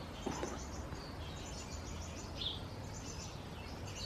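Quiet outdoor background with small birds chirping in short, quick high-pitched series, over a faint low steady hum.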